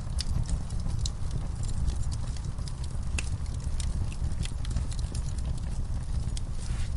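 Wood campfire crackling: irregular pops and snaps of burning wood, a few sharper ones about three seconds in, over a steady low rumble.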